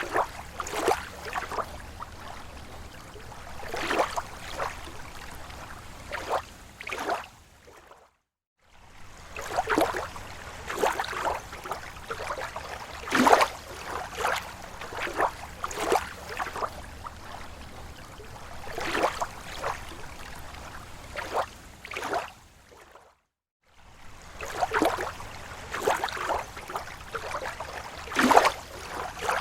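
Small slow waves lapping against a lake shore: a steady run of irregular soft splashes and gurgles, a few louder than the rest. The sound drops out to silence twice, briefly, about 8 and 23 seconds in.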